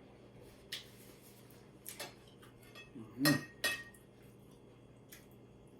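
Cutlery clinking and tapping against a plate: a handful of short, sharp knocks spread out, two of them ringing briefly about three and a half seconds in.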